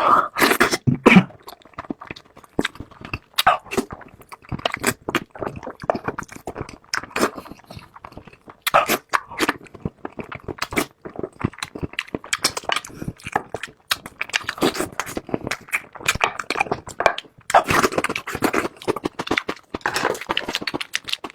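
Close-miked eating of barbecued meat: chewing and biting as a rapid, uneven run of clicks and crunches, with a few louder bites.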